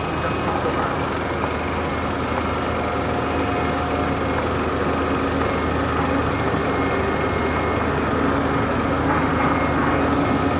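Heavy vehicle engine running steadily, getting a little louder near the end.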